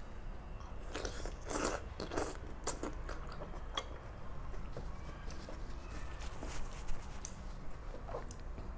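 Close-miked chewing of a mouthful of rice and cooked greens, with a run of crisp, crunchy bites in the first few seconds, then softer chewing.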